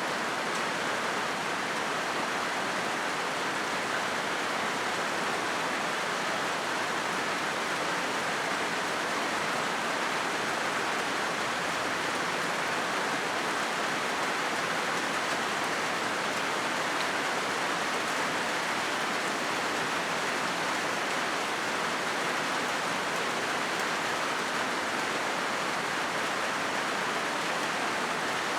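Rain falling steadily on a corrugated zinc roof, an even, unbroken hiss.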